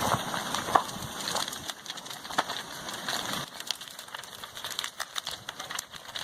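Wooden house crackling and splintering as a lava flow burns and crushes it, with irregular sharp cracks and pops, one of the loudest about a second in.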